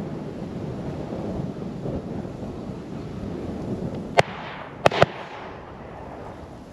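Three shotgun shots fired at a released pheasant: one about four seconds in, then two close together under a second later, each with a short echo. Wind on the microphone beneath.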